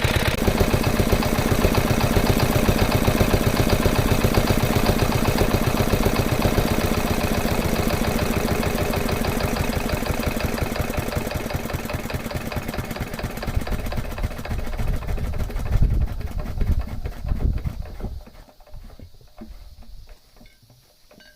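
Yanmar K3 single-cylinder diesel stationary engine running with an even beat, then slowing and fading until it stops about eighteen seconds in.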